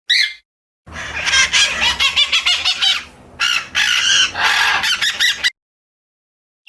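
Birds calling in a dense flurry of chirps and chatter, after one short call at the start; the calling cuts off abruptly about a second before the end.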